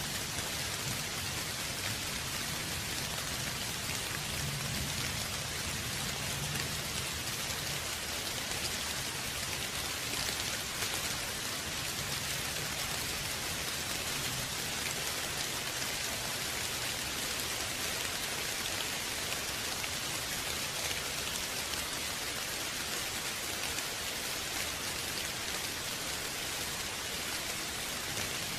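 Steady, even rain falling and pattering on surfaces, with a faint low rumble underneath for part of the stretch.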